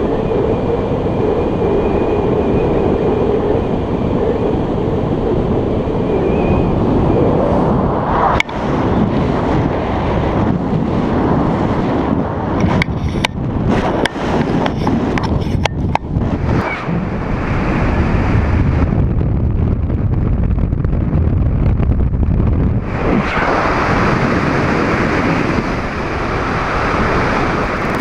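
Wind rushing over the microphone in flight, loud and steady, with a run of sharp clicks and knocks around the middle.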